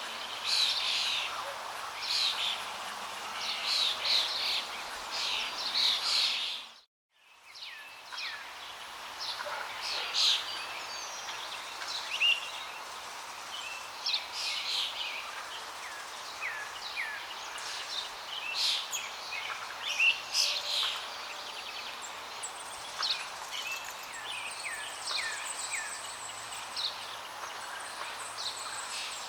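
Several birds chirping and singing in short, repeated calls over the steady rush of flowing water. About seven seconds in, the whole sound drops out to silence for under a second, then comes back.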